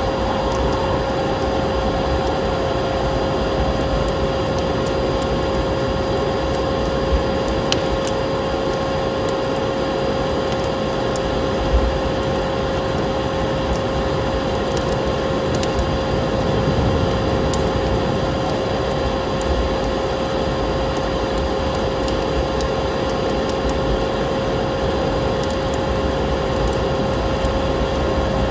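Wood fire crackling in a fireplace with scattered sharp pops, over a steady snowstorm wind noise and a constant hum.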